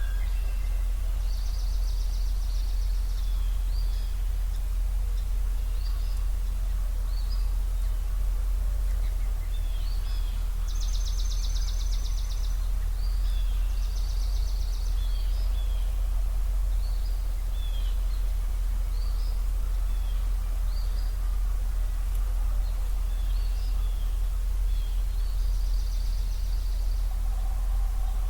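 Dawn chorus of several songbirds: repeated short high chirps, with rapid trills of about a second and a half recurring every few seconds, over a steady low rumble of background noise.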